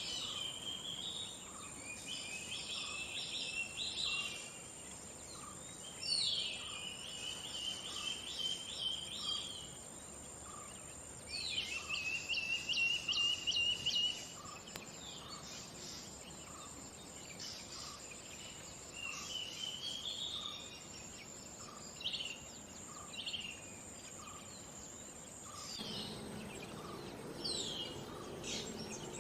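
Collared manakin calling in repeated bursts of rapid chattering notes, each burst a second or two long, with pauses between. A steady high tone runs underneath and stops near the end.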